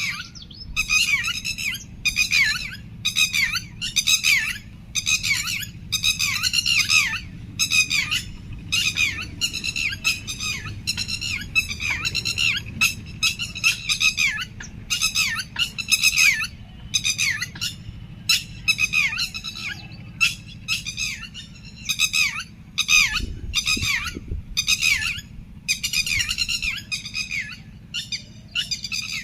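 Birds gathering to roost in the evening, giving short calls over and over, about two a second, over a low steady hum.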